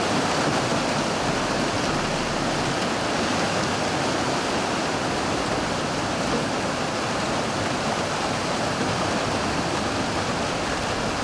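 Steady, even rush of churning, splashing river water around an electrofishing boat as stunned Asian carp leap.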